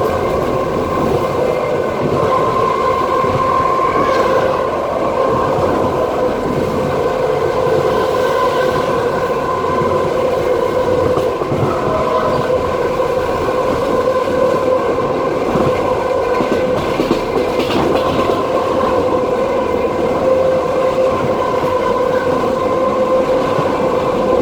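Passenger train running at speed, heard from inside the carriage: steady wheel-on-rail rumble with a continuous high singing hum of several tones, the "singing rails".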